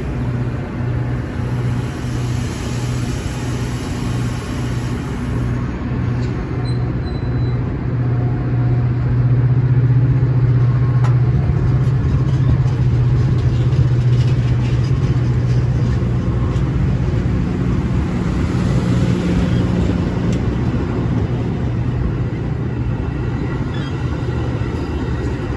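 Metra bilevel commuter train pulling out of the station, its cars rolling slowly past at close range over a low, steady engine drone.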